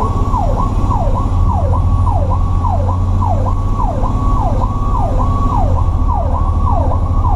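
Electronic emergency siren in a fast yelp, sweeping up and down about twice a second, over the steady low drone of a fire truck's engine.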